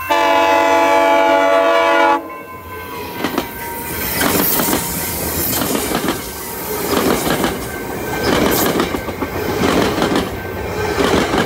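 Nathan K5CA-LS five-chime air horn on a West Coast Express cab car sounds one loud, steady chord of about two seconds and cuts off sharply. The bilevel passenger coaches then roll past close by, wheels clacking over the rail joints.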